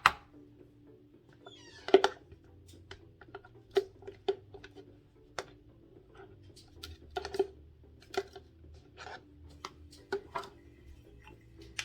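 Irregular light clicks and taps of a utensil against a bowl as mayonnaise is worked into shredded chicken.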